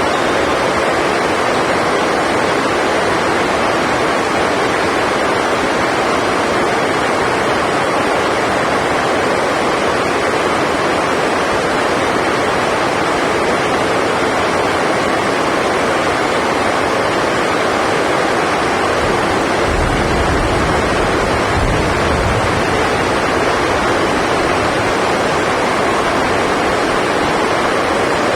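Heavy rain drumming on the sports hall roof, a loud, even hiss that does not let up. About twenty seconds in, a low rumble comes in for a couple of seconds.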